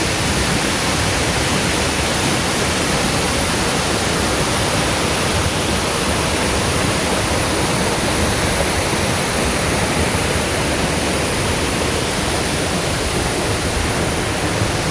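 Rushing water of a mountain river, a loud, steady, even rush with no breaks.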